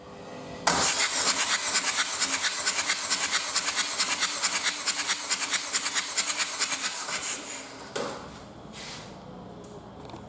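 Renault K9K 1.5 dCi diesel engine turned over on its starter motor for about seven seconds, a rapid rhythmic churning of about six or seven pulses a second that does not catch and run, as when cranking for a compression test. A single knock follows about a second later.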